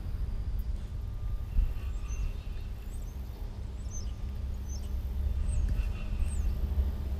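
Small birds chirping in short high notes, several times over a few seconds, over a steady low rumble.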